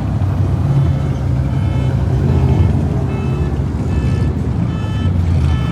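Car engine rumbling steadily with a deep low drone, with faint music over it.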